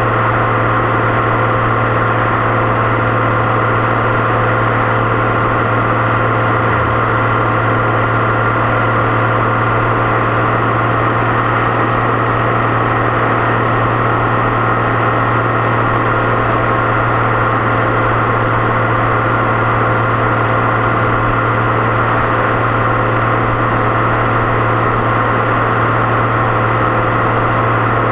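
Deutz-Fahr 6.61 tractor's turbo diesel engine running at steady revs on the move, with a steady high turbo whine over the low engine note.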